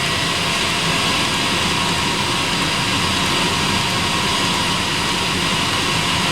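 Old Eberspacher D1L diesel heater running with its combustion fan at full speed: a steady rushing roar with a thin whine over it. The owner takes it for a fuel pump too small to keep up with the fan, so the flame is about to go out.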